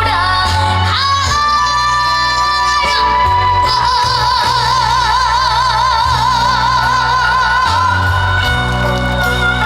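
A high, young voice singing a trot song over backing music, with one long note held with wide vibrato through the middle.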